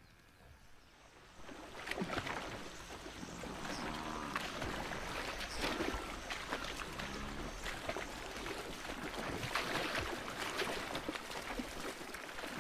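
A herd of African buffalo on the move through water: dense splashing and trampling of hooves, with two short low grunts about four and seven seconds in.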